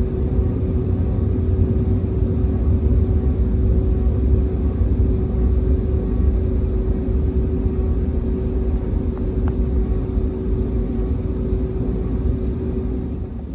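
Airbus A321neo cabin noise on the ground before takeoff: the engines run at low power, giving a steady hum over a continuous low rumble.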